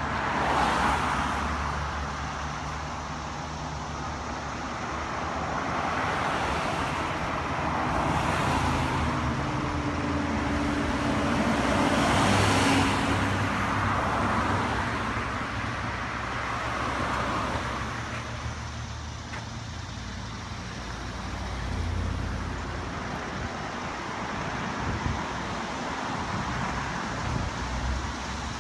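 Road traffic: a steady hum with several vehicles passing one after another, each swelling up and fading away over a few seconds.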